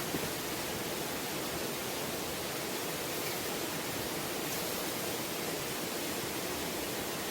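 Steady rushing noise of heavy rain and a fast-flowing valley stream, even and unbroken.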